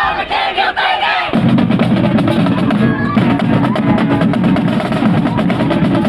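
High school marching band playing, a drumline pounding out snare and bass drum strokes under the band; the low end comes in about a second in.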